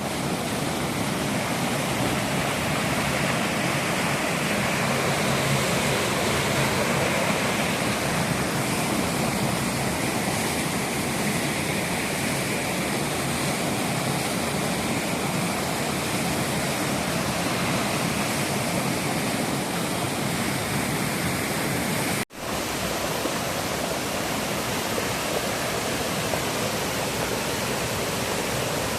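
Steady rushing of river waterfalls, an even roar of falling water, broken by a momentary gap about 22 seconds in, after which it resumes the same.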